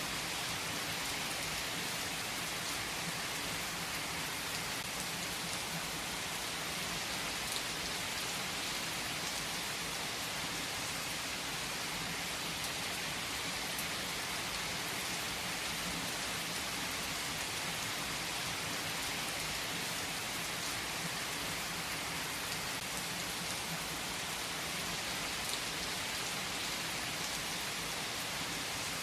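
Steady rain falling as an even hiss, with the odd louder drop standing out now and then.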